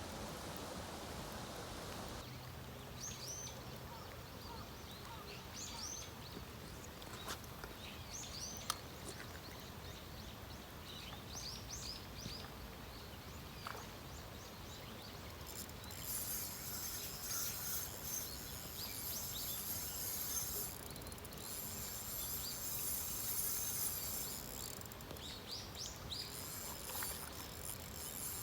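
Small birds chirping again and again over a steady hiss of rain. About halfway through, a dense high-pitched shimmering chorus joins in and carries on.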